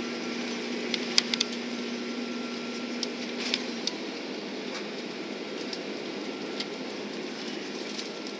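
Cabin noise inside an Airbus A330-300 airliner: a steady hum of engines and air conditioning with scattered short clicks and rattles of cabin fittings. A low steady tone in the hum stops about halfway through.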